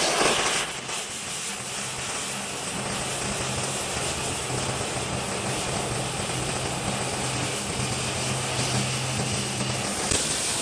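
A machine running steadily with a low hum and constant hiss, after a brief louder burst right at the start.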